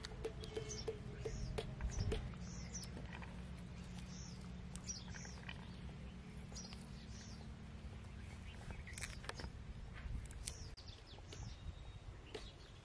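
Small birds chirping again and again, short high chirps coming every half second or so, over a faint steady low hum.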